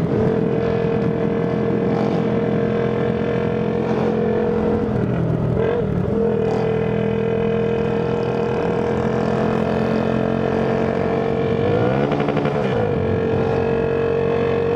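Small motorcycle engine held at high revs, very loud, with a steady high drone. The revs dip briefly and pick up again around five seconds in and around twelve seconds in.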